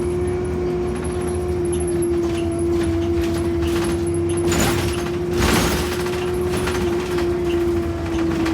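A steady mid-pitched whine holds over a low rumble of traffic, with a rushing surge of noise about four and a half to six seconds in, like a vehicle passing close.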